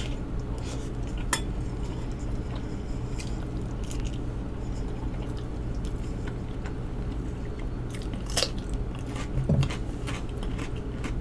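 Close-miked chewing of a mouthful of shrimp, sausage and rice, with scattered sharp mouth clicks, over a steady low hum.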